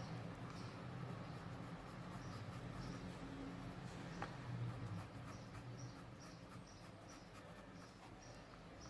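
Pencil drawing on paper: faint, light scratchy strokes, with a low steady hum behind.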